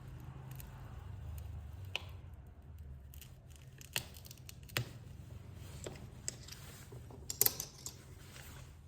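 Small sharp clicks and light scraping of hand tools working the iPhone XR's screen adhesive to open the phone, the loudest cluster of clicks near the end. A low steady hum fades out about three seconds in.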